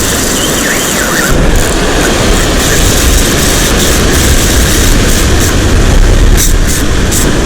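Loud wind buffeting the microphone with a deep, steady rumble, mixed with the wash of surf breaking on the shore. A few faint sharp ticks come near the end.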